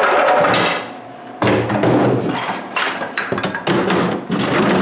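Wooden cabinet being moved and set into place, with scraping and thudding in three bouts broken by short pauses.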